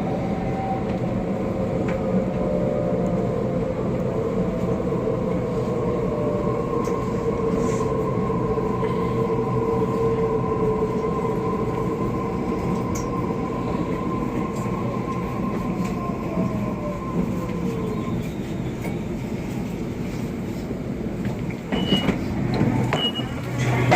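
Sydney Trains electric suburban train running, heard from inside the carriage: a steady rumble with motor whine that falls in pitch and dies away about three-quarters of the way through as the train slows into the station. Short high beeps come near the end.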